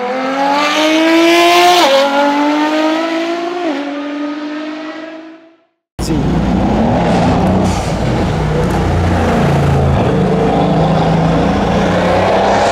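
RennTech-tuned Mercedes-AMG C63 S twin-turbo V8 accelerating hard, rising in pitch through upshifts about two and four seconds in, then fading out. After a cut about six seconds in, the V8 rumbles low and steady at low revs.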